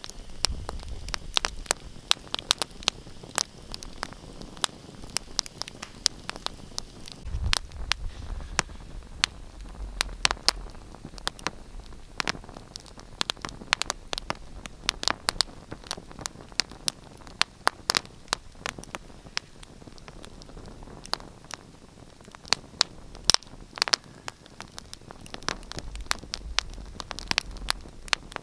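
Wood fire crackling: frequent, irregular sharp pops and snaps over a soft hiss, with now and then a few seconds of low rumble underneath.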